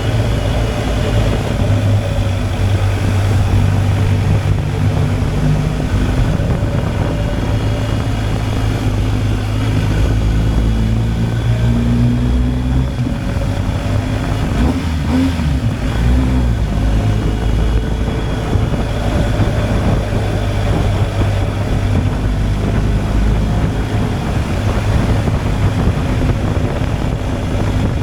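BMW R 1250 GSA's boxer-twin engine running at a steady ride, with wind rushing past; about halfway through the engine note rises and falls briefly as the revs change.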